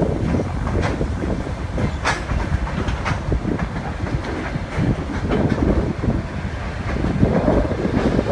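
A train rolling along the track with a steady low rumble, its wheels clicking over rail joints several times.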